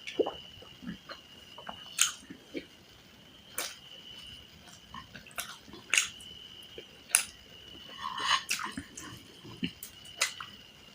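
Close-miked chewing and eating: irregular wet mouth clicks and smacks, a few every second, with a steady high whine behind them.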